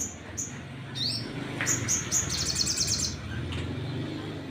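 Sunbird singing: a few short, high chirps, then a fast, high trill about two seconds in that lasts about a second.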